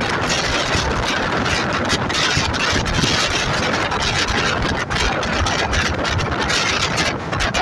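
Steady running noise of a moving express passenger train: the continuous rumble and rattle of the coach on the track.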